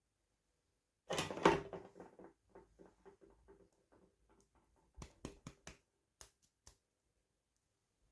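Small plastic toy pieces and packaging being handled: a burst of rustling and clicking about a second in that trails off into scattered ticks, then a handful of sharp separate clicks toward the end.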